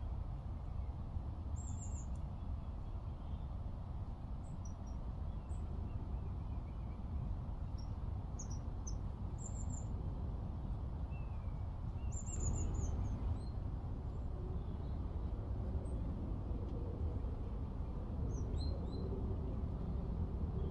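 Small garden birds calling with short, high chirps scattered throughout, over a steady low background rumble.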